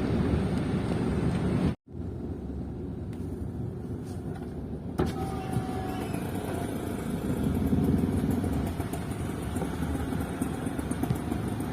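Road traffic: motor vehicles running with a steady low rumble, cut off abruptly for a moment just before two seconds in before the rumble resumes.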